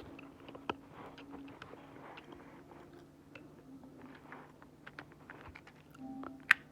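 Small scattered clicks and light rustling from small objects being handled, with one sharp click near the end, over a faint steady hum.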